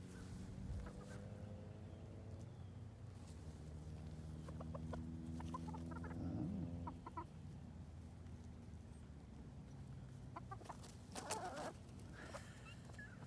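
Chickens clucking, with short scattered calls around the middle and near the end, over a steady low hum.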